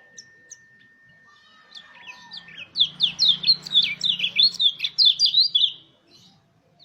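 White-eye (pleci) singing: a few faint high chirps, then a fast rolling run of sharp sweeping notes, about five a second, lasting some three seconds.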